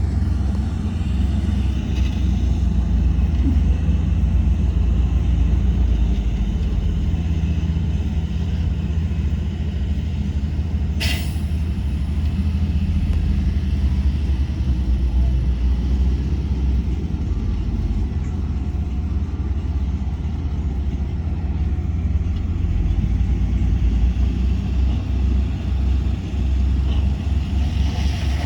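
Heavy diesel engine of earthmoving machinery running steadily with a deep, low rumble, with one short, sharp hiss about eleven seconds in.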